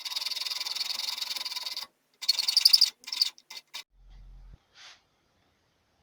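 Hand tool working wood with a rasping scrape: one long stroke of nearly two seconds, a shorter strong stroke, then a few quick short strokes. A brief low hum sounds about four seconds in.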